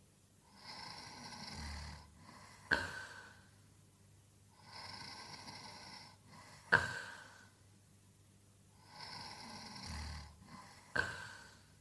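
A sleeping man snoring in a steady rhythm: three sharp, loud snores about four seconds apart, each fading quickly, with a softer breathy sound about a second and a half long between them.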